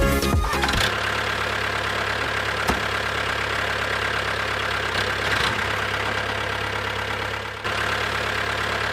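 Small motor of a homemade model tractor running steadily with a constant whine, with a few faint clicks.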